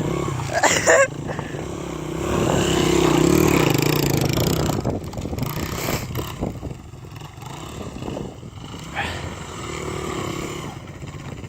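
Honda XR100 dirt bike's single-cylinder four-stroke engine running under throttle, rising to its loudest about two to five seconds in and then easing off. Two short, sharp noisy bursts come about a second in.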